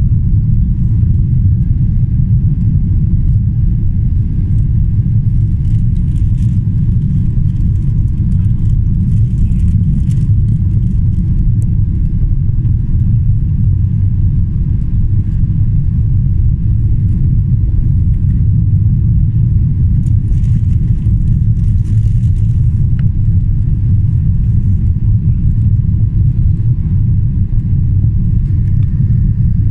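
Steady low rumble inside the cabin of a Boeing 777-300ER with General Electric GE90 engines.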